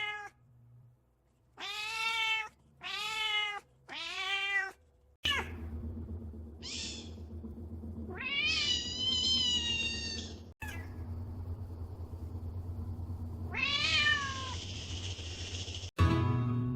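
Cats meowing: three short meows about a second apart, then several longer, higher-pitched meows, over a low steady background that cuts in and out abruptly.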